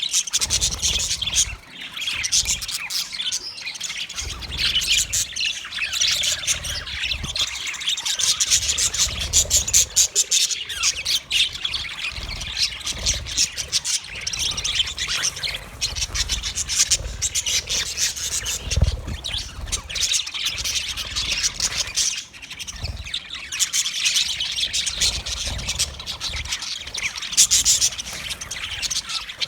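Budgerigars chirping and warbling in a continuous, busy chatter.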